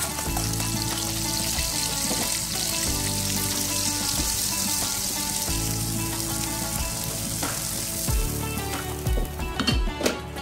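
Ground spice paste sizzling as it is stir-fried in hot oil in a wok with a spatula, the sizzle dying away near the end. Background music with steady held notes plays underneath.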